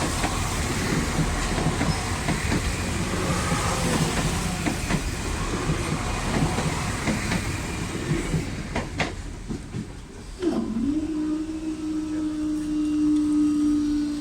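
Passenger train passing over a level crossing, its wheels clattering over the rail joints for about ten seconds. The clatter then fades and a steady hum takes over.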